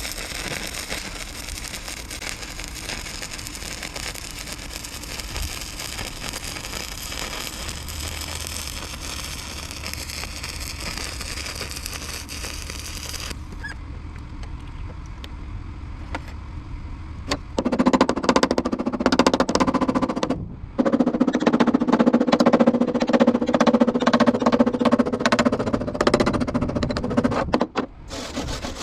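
Welding on a steel truck fender. A steady crackling hiss runs for about the first half, then comes a lull. Near the end a louder, dense crackling buzz starts, breaks off for a moment, and runs on until shortly before the end.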